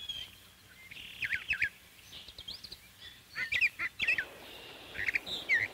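Wild birds chirping and calling in short, quick groups of notes, several times over. A faint steady hiss joins in from about four seconds in.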